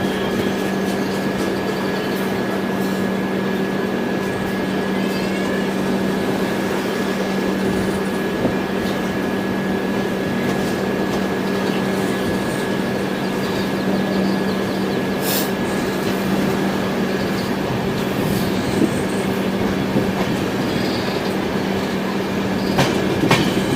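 Express passenger train running, heard from on board: a steady noise of the coach moving on the rails with a constant hum and a few sharp clicks.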